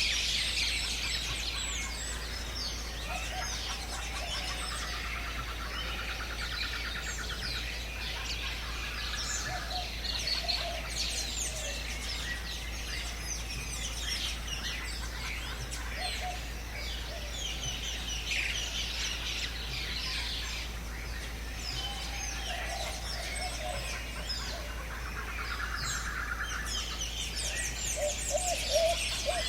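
Many birds chirping and calling at once in a dense jungle chorus of short, high chirps and whistles, with a fast rattling trill twice.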